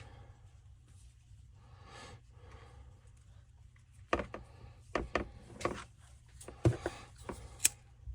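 Light clicks and knocks of metal and plastic saw parts and tools being handled on a workbench. It is quiet at first, then about nine sharp, irregular clicks come in the second half.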